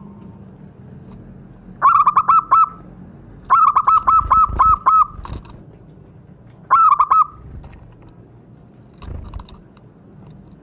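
Zebra dove (perkutut) singing: three bursts of rapid, evenly repeated cooing notes, the middle burst the longest. A weaker low thump follows near the end.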